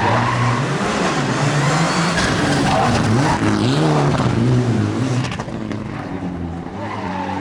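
Rally car engine revving hard and easing off several times in quick succession. The sound becomes quieter about five seconds in.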